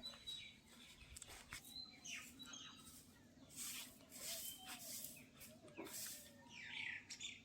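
Birds chirping: scattered short chirps and calls, with a few brief rushes of noise and a faint low hum behind.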